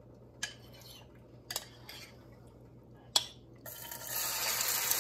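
Three light clicks of kitchenware, then marinated chicken pieces tipped into hot olive oil in a nonstick saucepan set up a steady sizzle about three and a half seconds in.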